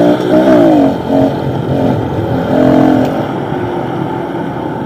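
Pit bike engine running under way: the revs drop in the first second, then it runs on rougher and quieter with brief rises in pitch.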